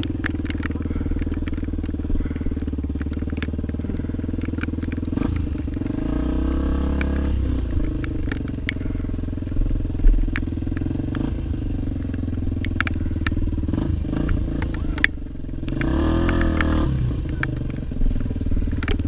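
Off-road vehicle engine running steadily on a rough trail climb, its pitch rising and falling twice as the throttle changes, with scattered sharp clicks of stones and rattles.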